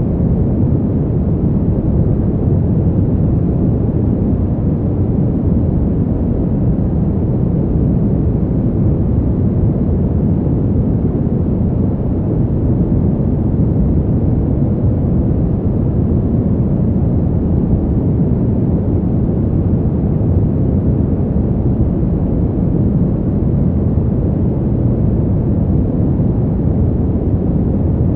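Steady winter wind noise: a deep, even rush with no gusts or changes.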